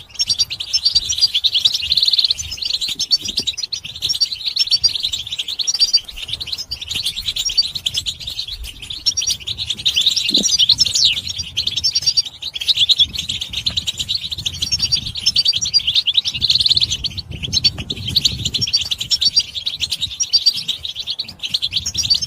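Several European goldfinches twittering together in a dense, continuous chorus of rapid high chirps and trills, the excited group calling used to stir male goldfinches into song.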